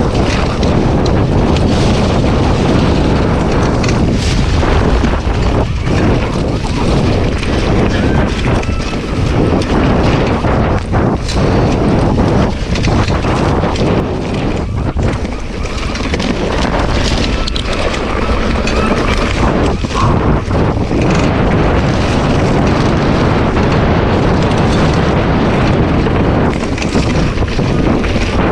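Loud, continuous wind buffeting the microphone, with a few brief dips.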